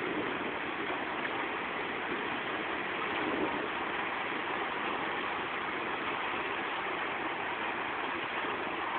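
Steady rain falling during a thunderstorm, an even rushing noise with no thunder claps.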